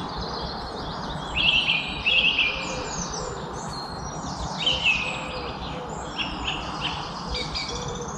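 Several songbirds chirping and singing together, with many quick high chirps that sweep down in pitch. Louder song phrases come about a second and a half in, again at two seconds, and near the middle, all over a steady background hiss.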